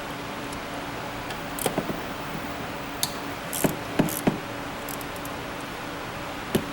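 Metal hand tools clinking and tapping on engine parts: scattered sharp metallic clicks, several with a brief ringing. The loudest come about four seconds in, and a steady low hum runs underneath.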